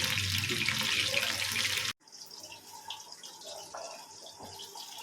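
Marinated chicken pieces deep-frying in oil in a small kadai: a loud, steady sizzle that drops away suddenly about two seconds in, followed by a much quieter sizzle with scattered crackles.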